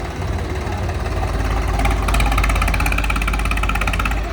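Tractor diesel engine running hard under load as it pulls against another tractor, getting louder about a second in, with a fast, even rhythmic clatter joining about two seconds in.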